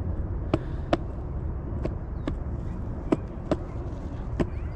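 Penny board rolling on pavement: a steady low rumble from the wheels, with sharp clacks in pairs as the front and then the rear wheels cross seams in the sidewalk.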